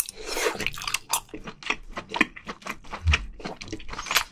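Close-miked chewing of steamed scallop meat in spicy sauce: a noisy bite as the piece goes into the mouth, then many short mouth clicks and smacks as it is chewed.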